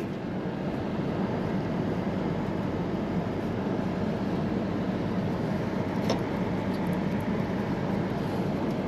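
Rooftop air-conditioning unit running: a steady hum of its fan and compressor. A faint click about six seconds in.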